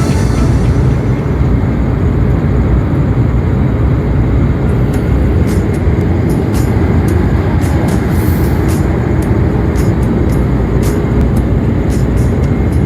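Airliner cabin noise in flight: a steady, loud rumble of engines and airflow, heaviest in the low end, with scattered light clicks.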